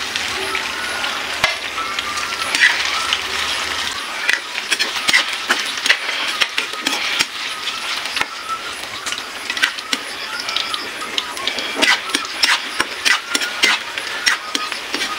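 Squid balls sizzling steadily in hot cooking oil in a wok, with a spatula clicking and scraping against the pan as they are stirred.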